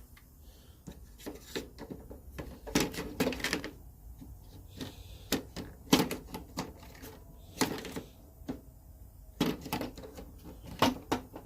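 Irregular clicks, knocks and rattles of a part being fitted onto a table saw by hand, with the loudest knock about halfway through.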